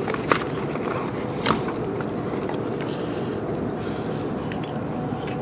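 Steady hum and hiss of background machinery or outdoor air, with a few light clicks, about a third of a second and a second and a half in.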